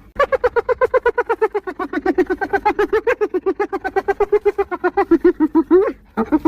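Spotted hyena giggling: a long, unbroken run of rapid pitched whoops, about nine a second, that breaks off near the end and starts again.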